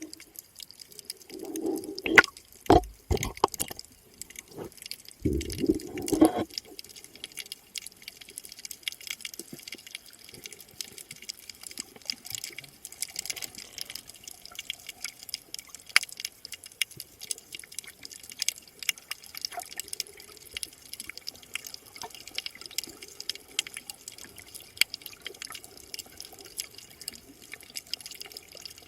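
Sea water heard through the camera's microphone: a few louder sloshing bursts in the first six seconds, then a steady dense crackle of tiny clicks.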